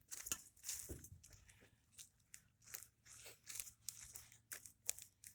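Faint, irregular crunching and clicking of footsteps on rocks and gravel.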